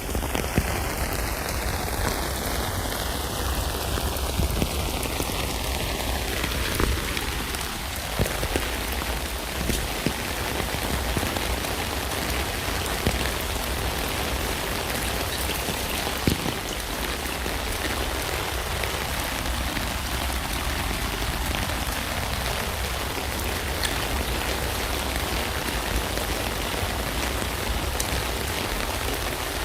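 Steady rain falling on a tent, an even hiss of many drops with an occasional sharper single drop hit.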